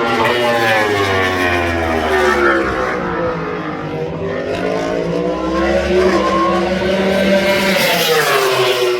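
Racing motorcycle engine at high revs, its pitch sliding down over the first few seconds, then climbing again and falling near the end.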